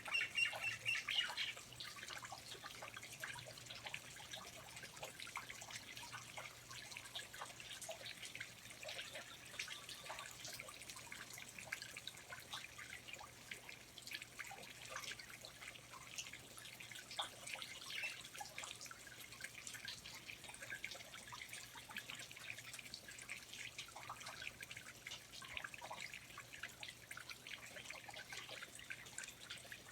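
Water dripping in a rainforest: many small, irregular drops, fairly quiet. A bird calls briefly at the very start.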